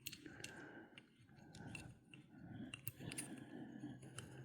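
Faint small clicks and light scraping of metal fishing-reel parts being handled and screwed together.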